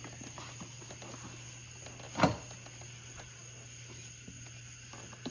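Light handling clicks and rustles of parts being fitted on an ATV, with one sharp knock about two seconds in, over a steady low hum.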